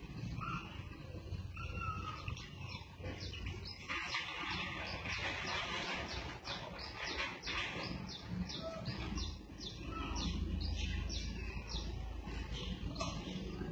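Small birds chirping: a run of short, high chirps at about two a second, over a steady low rumble that grows louder about nine seconds in.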